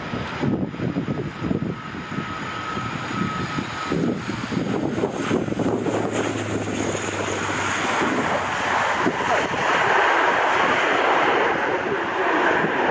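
Military aircraft engine noise at an airshow: a rumble with a faint steady whine, then a rushing noise that builds and grows louder about halfway through.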